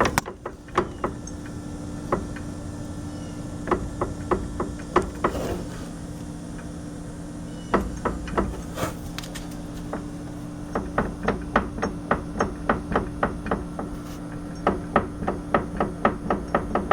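Front suspension A-arms of a 2015 Arctic Cat Wildcat Sport knocking as the wheel is rocked by hand: quick runs of sharp clunks, about three or four a second, in several bouts with short pauses. The arms are sliding back and forth on their bolts through worn bushings. A steady low hum sits underneath.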